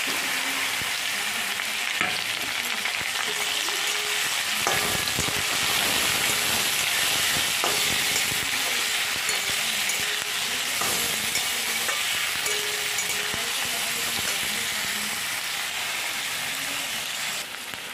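Freshly chopped onion, tomato, garlic, ginger and green chillies sizzling steadily in hot oil with fried potato cubes in a steel kadai. A metal spatula scrapes the pan now and then as the mixture is stirred.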